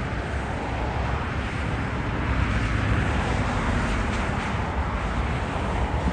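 Freight train rolling past: a steady low rumble with a wash of wheel noise above it.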